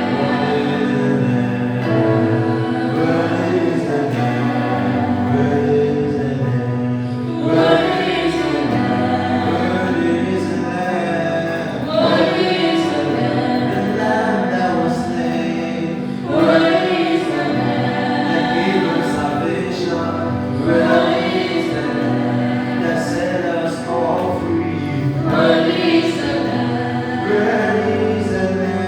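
Gospel choir singing a worship song with instrumental accompaniment.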